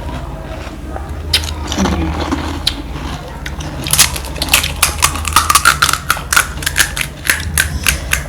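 Close-up crunching of a crisp street snack being bitten and chewed: a fast run of sharp crunches from about four seconds in, over a steady low hum.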